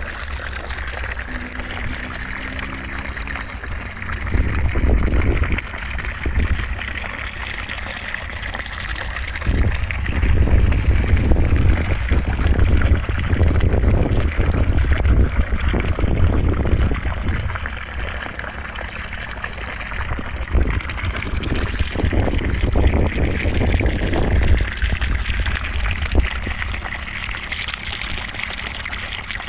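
Continuous white noise for sleep: a steady rushing hiss, with a deeper rumble underneath that swells and fades several times.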